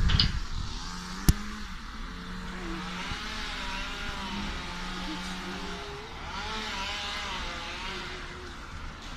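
Cars passing on a street in a summer thunderstorm, their engines and tyres swelling and fading twice over a steady background of rain. A single sharp knock about a second in.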